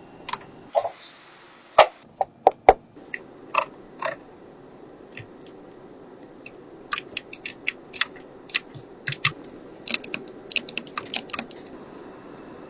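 Irregular series of sharp clicks and knocks. A few loud ones come about two seconds in, then a quicker run of lighter clicks follows from about seven seconds in.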